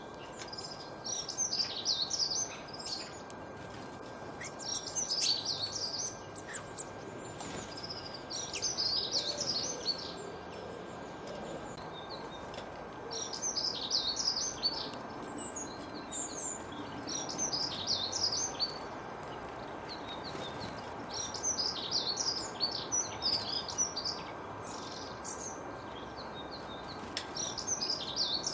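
A songbird singing short, high phrases of quick notes, about seven times, each a second or two long with pauses between, over an even background hiss and a faint steady tone.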